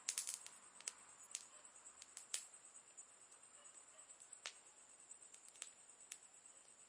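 Wood fire crackling faintly, with sharp pops: a quick cluster right at the start, then single pops every half second or so.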